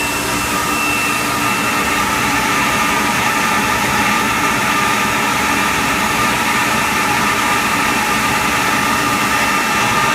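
Industrial parts washer running: a loud, steady rushing machine noise with a few steady high whining tones over it.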